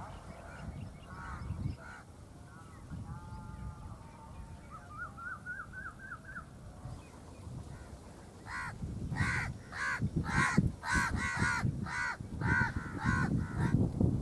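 Birds calling: a few soft pitched notes and a short rising trill in the first half, then about a dozen loud, harsh calls in quick succession in the second half.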